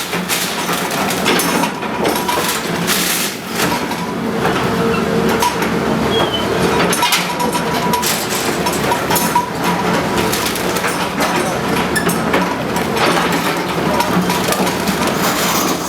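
Heavy demolition machinery running, with repeated crunching and clattering of debris being broken and pushed. Steady engine hum under irregular knocks and crashes.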